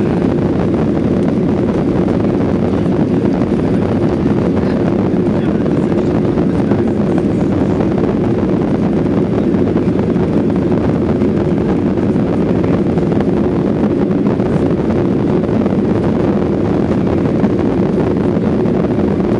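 Steady engine and airflow noise inside the passenger cabin of a Ryanair Boeing 737-800 during takeoff, even and unchanging, strongest in the low range.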